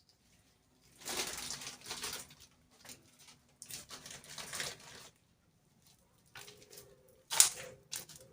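Handling noise: several bursts of rustling and scraping, with a sharp knock about seven seconds in. A low, steady cooing call starts near the end.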